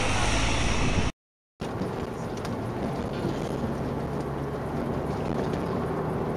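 Steady wind rush and engine drone from a moving vehicle, cut by a half-second dropout to silence about a second in, after which the same kind of road and wind noise carries on a little quieter.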